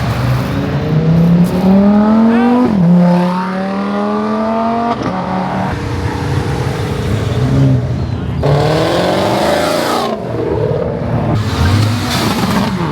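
Car engine accelerating hard, its pitch climbing, dropping suddenly at an upshift about three seconds in and climbing again. A second run of rising revs comes later.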